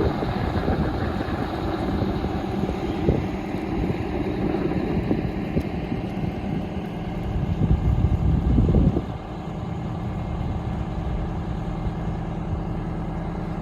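A motor vehicle's engine running steadily with a low rumble, with a louder, rougher stretch about eight seconds in before it settles into an even hum.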